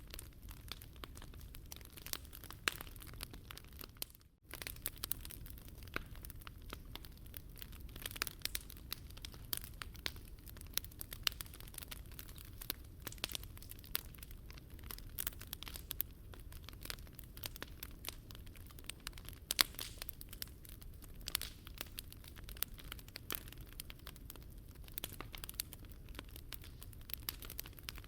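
Wood fire burning: irregular sharp pops and snaps of burning wood over a low steady rush.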